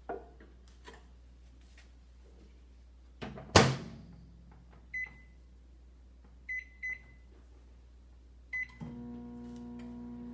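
Microwave oven door shut with a sharp knock, then four high keypad beeps as the cooking time is set. The oven starts up near the end and runs with a steady hum.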